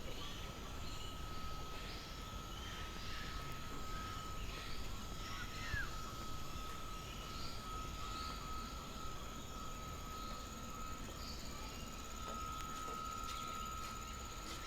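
Bird park ambience: scattered short bird chirps and one quick falling call about six seconds in, over a low rumble and a thin steady high tone.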